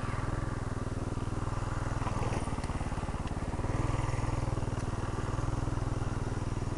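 Mini bike's 6.5 hp Harbor Freight single-cylinder four-stroke engine running steadily under load while riding, held back by its governor, picking up a little about four seconds in.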